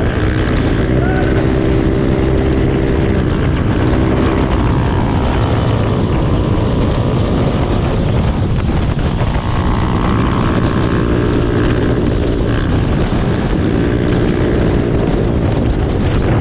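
Motorcycle engine running on the move, with heavy wind noise on the camera's built-in microphone; the engine's note comes and goes several times over the steady rush.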